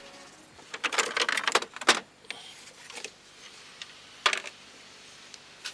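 Metal clinks and light rattles of hand tools and small bolts as the timing belt cover bolts come out: a quick cluster of clinks in the first two seconds, then single clinks about three and four seconds in.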